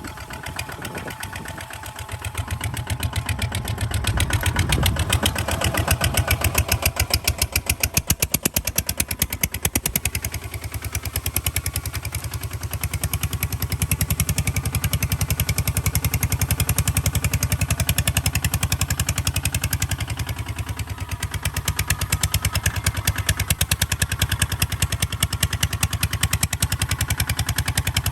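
Kubota ZT155 DI single-cylinder diesel engine of a walk-behind tractor running with a rapid, even chugging. It is quieter for the first few seconds, grows louder about four seconds in, and dips briefly twice, around ten and twenty seconds in.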